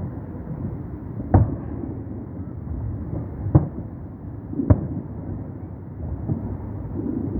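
Three booms of fireworks salute shells bursting, the first about a second in, the next about two seconds later and the last a second after that, over a steady low background rumble.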